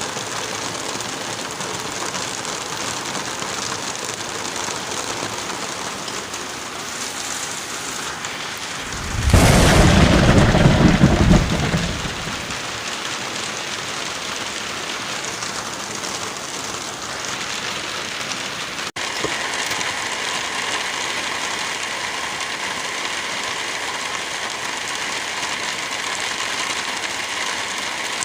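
Steady rain, broken about a third of the way in by a loud thunderclap whose rumble lasts about three seconds before dying back into the rain. Near two-thirds through, the rain cuts out for an instant and resumes.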